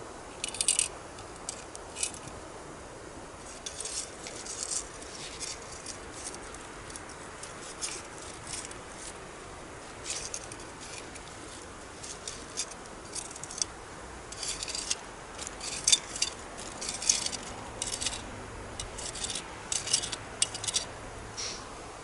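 Wood campfire crackling, with irregular sharp snaps and pops that grow busier and louder in the second half, over the steady rush of a river.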